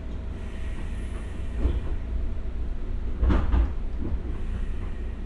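Running sound inside a JR West 201 series electric commuter train: a steady low rumble of the wheels on the rails. One knock comes about a second and a half in, and a louder double clack a little past halfway, as the wheels cross rail joints.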